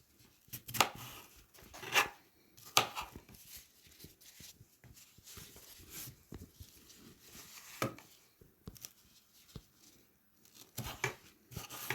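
Kitchen knife slicing a red bell pepper: three sharp cuts in the first three seconds, then softer scattered cuts and rustling, with another run of cuts near the end.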